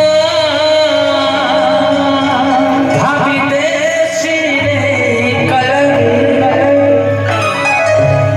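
Singing over musical accompaniment: a vocal line with held and sliding notes over a steady sustained tone.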